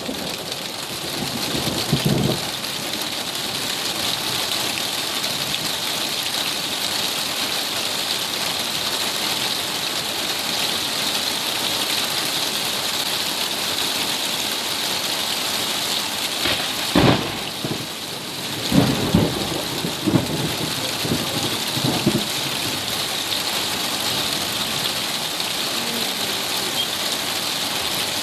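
Steady rain falling hard during a night thunderstorm, with a sudden loud thunderclap about two-thirds of the way through, followed by a few shorter low rumbles.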